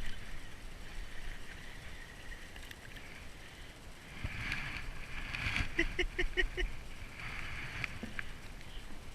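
Water splashing and sloshing around a kayak while a hooked bass is brought in, swelling a little after halfway through. A brief run of about six quick, evenly spaced pitched pulses comes just past the middle.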